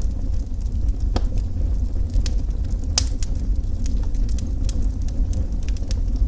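Wood fire burning, a steady low rumble with irregular sharp crackles and pops, the loudest pop about three seconds in.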